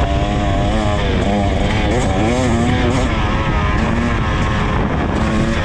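KTM EXC 300 TBI's single-cylinder two-stroke engine under hard riding, its pitch rising and falling several times as the throttle is worked on and off.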